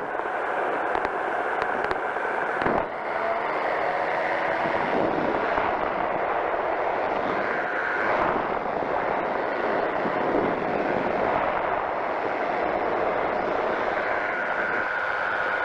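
Powered parachute's engine and propeller running steadily in flight. There is one sharp click about three seconds in.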